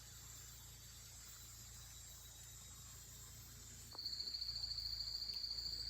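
Insect calling in the forest: a high-pitched, fast-pulsing trill that starts abruptly about four seconds in and holds steady, over a faint constant high insect hiss.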